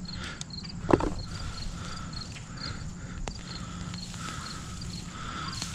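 Insects chirping in a steady, regular rhythm, about two chirps a second. A single sharp knock sounds about a second in.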